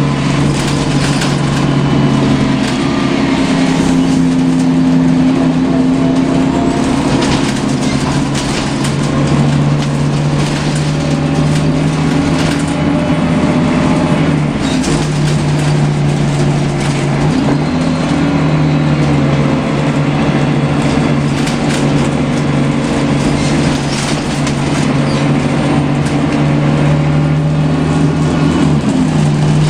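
Scania L94UB CNG bus heard from inside the passenger cabin while under way: a steady engine drone with a whine, whose pitch shifts a few times as the bus changes speed, over road noise and body rattles.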